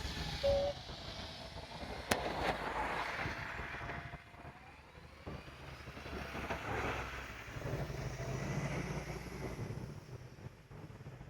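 Vehicle engines running nearby, a low uneven rumble that swells and fades, with a sharp click about two seconds in.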